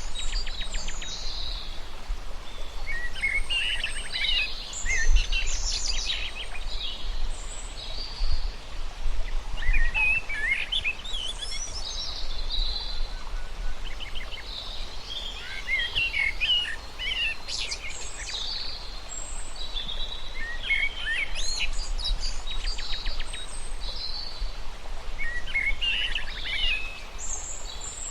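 Songbirds singing: short phrases of chirps and quick trills, one after another every few seconds, over a steady low background noise.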